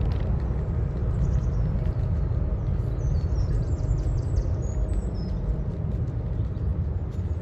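Boeing 777 jet taking off at a distance: a steady low rumble of its engines at take-off power. A few bird chirps come in about three to five seconds in.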